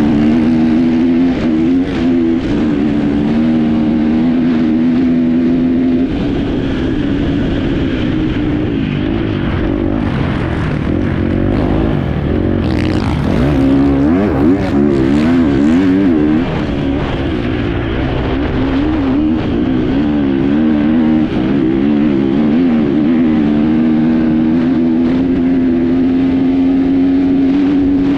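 Enduro motorcycle engine heard on board, running hard with the revs rising and falling under the throttle. The revs waver quickly up and down around the middle and hold steadier near the end.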